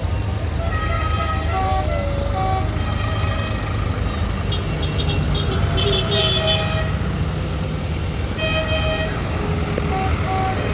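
Tractor engines running with a steady deep drone, with vehicle horns tooting in short blasts of different pitches over it.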